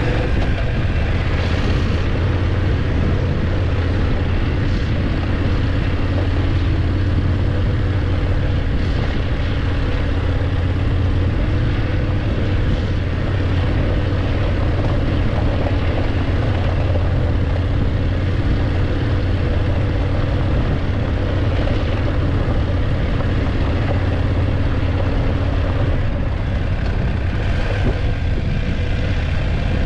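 BMW F850GS motorcycle's parallel-twin engine running at a steady speed under way, its pitch holding level.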